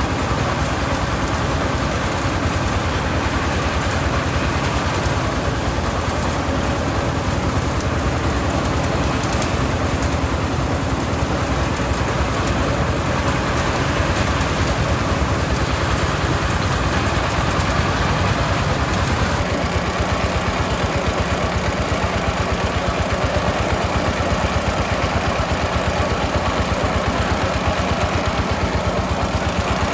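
Small engine-driven rice threshing machine running steadily, its engine beating rapidly and evenly under the machine's noise.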